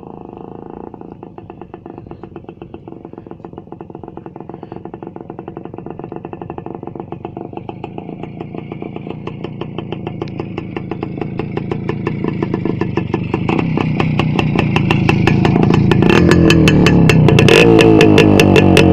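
Voskhod two-stroke single-cylinder motorcycle running on an open exhaust with its mufflers removed: a rapid, crackling train of exhaust pulses, very loud. It grows steadily louder, loudest in the last few seconds.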